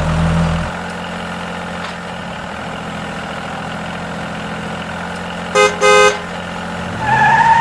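Vehicle engine sound running steadily, with two short horn honks about five and a half seconds in and a rising tone near the end.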